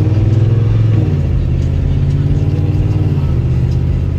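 Car engine accelerating through the gears: the engine note climbs, drops at an upshift about a second in, climbs again and drops at a second shift near the end.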